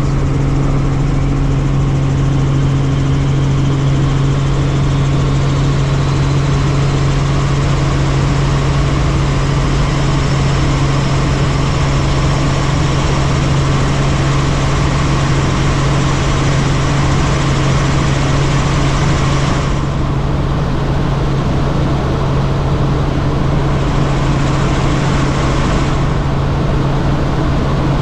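Helicopter in flight: a loud, steady drone of engine and rotor with a constant low hum underneath. The higher hiss thins for a few seconds about twenty seconds in.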